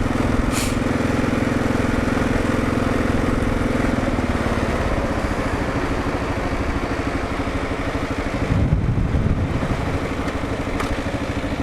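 Kawasaki KLR650's single-cylinder engine running steadily, its pitch dropping about four seconds in, with a brief louder surge about nine seconds in.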